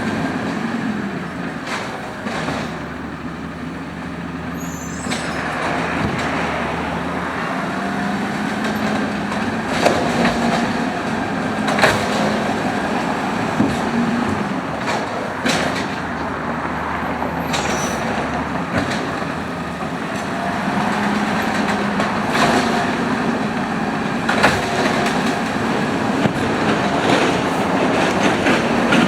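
Automated side-loader garbage truck running steadily, its engine and hydraulics droning, with a handful of sharp metallic clanks and bangs spread through it as it works a recycling route.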